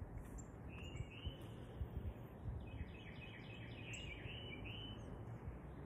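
Small birds chirping: a couple of high chirps about a second in, then a quick run of short repeated chirps about three seconds in, over a faint steady low background noise.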